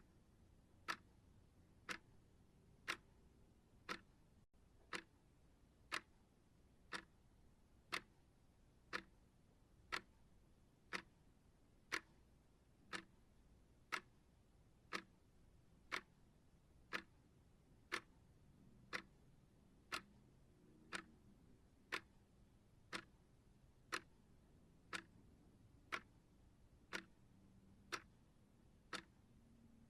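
Clock ticking steadily, one short tick a second.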